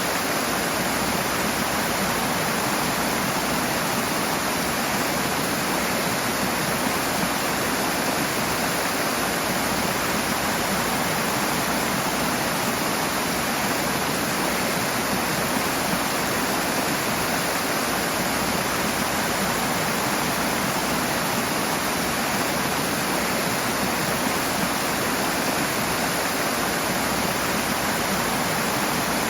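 Rushing water from a fast stream or small waterfall, making a steady, even noise with no breaks.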